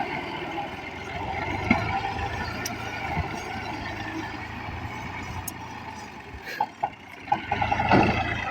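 Farm tractor engine running steadily, then several sharp knocks and a louder clattering burst near the end.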